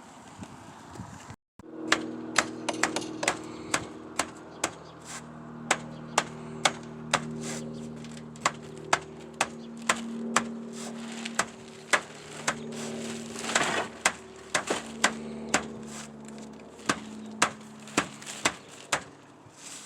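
Repeated sharp clicks and knocks of hand tools on a roof, irregular, about one to two a second, over a steady low hum.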